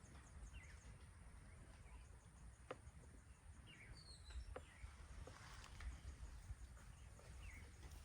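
Faint outdoor ambience: a low rumble with scattered short bird chirps and a few soft clicks.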